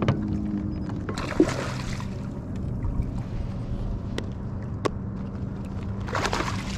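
Water splashing and sloshing against a kayak in two short bursts, over a steady low hum, with a few sharp knocks.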